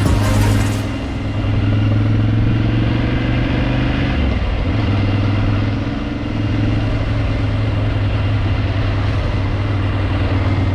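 Motorcycle engine running steadily while riding, with brief dips in level about a second in and near six seconds.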